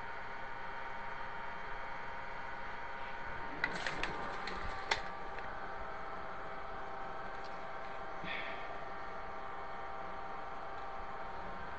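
A quick run of sharp clicks and knocks about four seconds in, like hard parts being handled or fitted, over a steady faint hum; a single faint tick follows a few seconds later.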